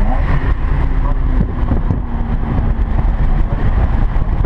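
A 2004 Lexus IS300's inline-six engine running under way, heard from inside the cabin as a steady, loud drone mixed with tyre and road noise.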